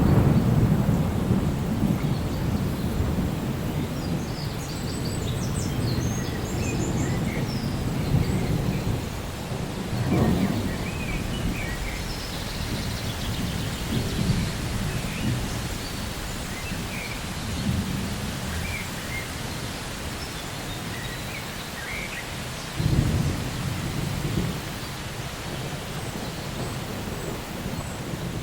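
Thunderstorm: rolling thunder rumbling over steady rain. The rumble is loudest at the start and slowly dies away, swells again about ten seconds in, and comes back suddenly about two-thirds of the way through. Faint high chirps are heard through the middle.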